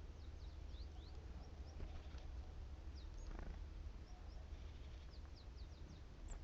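Great tits giving many brief, thin, high down-slurred calls, scattered and overlapping, over a low steady rumble.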